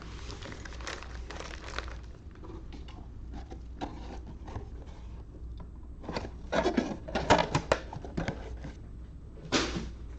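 Trading card packs and cards being handled by hand: irregular rustling, crinkling and small clicks, busiest about two-thirds through.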